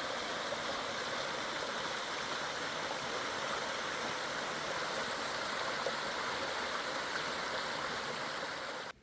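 Stream water rushing steadily over rocks, a constant even splashing that cuts off suddenly near the end.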